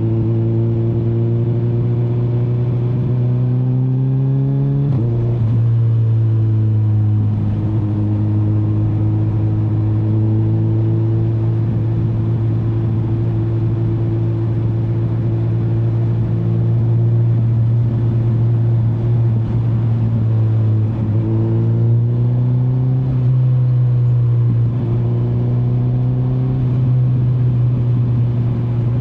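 Kawasaki Z900's inline-four engine heard from the rider's seat, rising in pitch under acceleration, then dropping sharply about five seconds in as it shifts up. It then runs at a steady pitch for a long stretch, steps up in pitch a little past twenty seconds in, and dips briefly a few seconds later.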